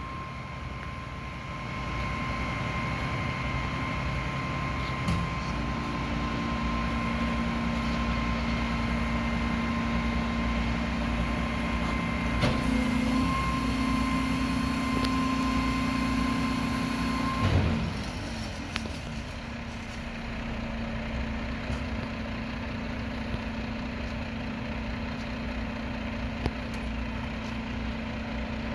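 Mack MRU front-loader garbage truck's engine revved up to power the Heil body's hydraulics, with a steady hydraulic whine, as the forks work a dumpster. About 17 seconds in there is a loud bang, the whine stops and the engine drops back to idle.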